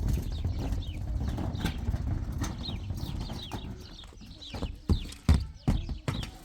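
Hooves clopping on hard ground: sharp, irregular knocks in the second half, after a low rumble in the first half. Short falling chirps sound throughout.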